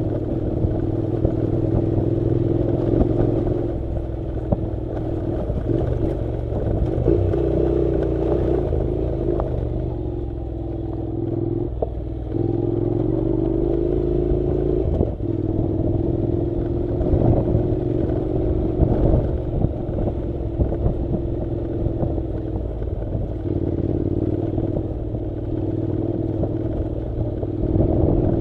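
Honda NC700's parallel-twin engine running at steady, low, slightly wavering revs while riding a dirt road, with frequent clatter and knocks from gravel and the bike jolting over rough ground.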